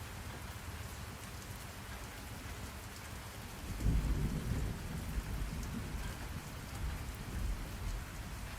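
Steady rain hiss, with a low rumble of thunder rolling in about four seconds in and fading away over the next few seconds.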